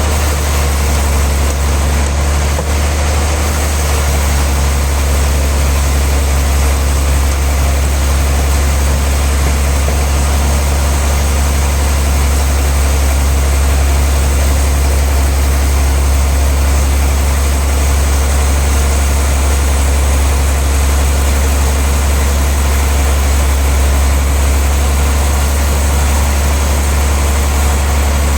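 Sawmill machinery running steadily, a deep unbroken hum with a constant noise above it.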